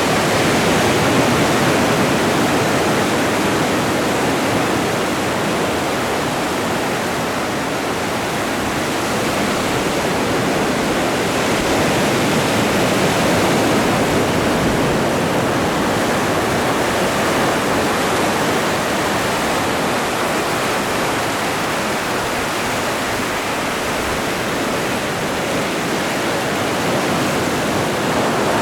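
Ocean surf washing on the shore as a continuous dense hiss, swelling and easing slowly over several seconds.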